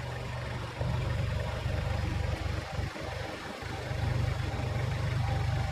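Tractor engine running with a steady low rumble that dips briefly a few times.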